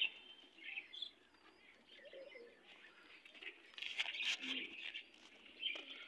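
Small birds chirping faintly: short, high chirps in scattered bursts, busiest about four seconds in, where a few scratchy clicks mix in.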